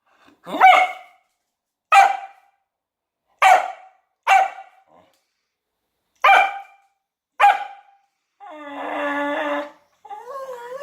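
Kelpie barking: six short, sharp single barks with gaps of about a second between them, then a drawn-out whine lasting about a second and a half and a wavering whine near the end.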